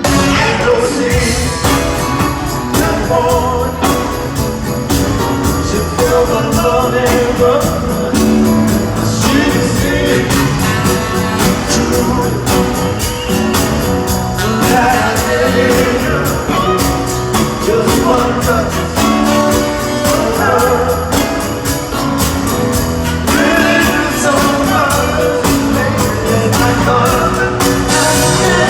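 Live band playing a soft-rock ballad, with a lead vocal over the accompaniment.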